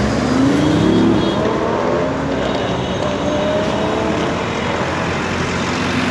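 A car accelerating close by, its engine note rising over about the first second, with fainter rising engine notes a little later, over steady traffic and road noise.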